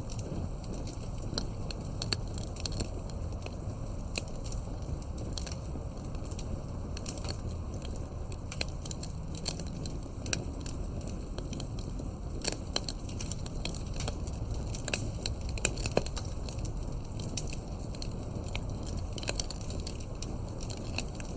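Wood campfire crackling: irregular sharp pops and snaps over a steady low rumble of burning, with a few louder pops midway.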